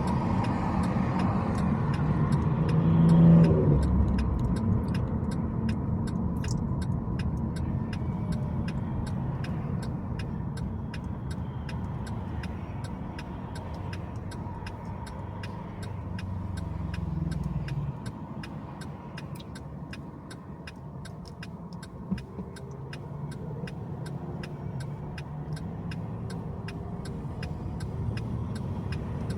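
Car driving on city streets: steady engine and tyre noise, with a louder vehicle rising in pitch about three seconds in. A faint, steady ticking, about twice a second, runs underneath.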